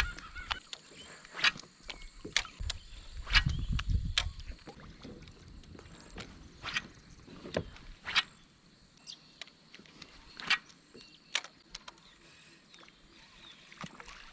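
Irregular sharp clicks and knocks of fishing gear being handled on a kayak, about ten in all, with a low rumble of handling a few seconds in.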